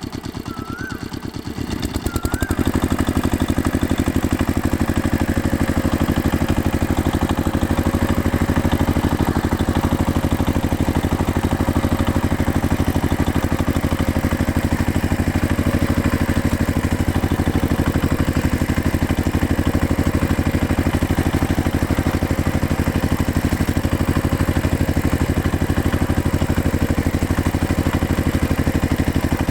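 Homemade mini tractor's small engine running steadily with a fast, even beat, getting louder about two seconds in and then holding steady.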